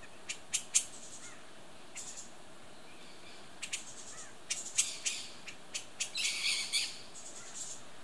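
Small forest bird giving sharp, short chip calls in irregular clusters, running into a quick chattering series about six seconds in.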